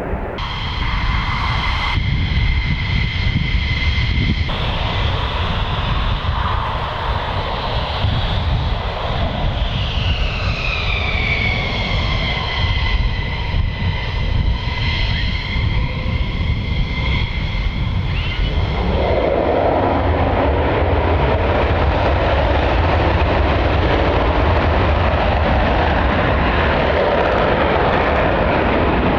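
Jet aircraft engines: a high whine that slides down in pitch as the aircraft passes, about ten seconds in. About two-thirds of the way through, a broad, louder roar takes over, over a steady low rumble.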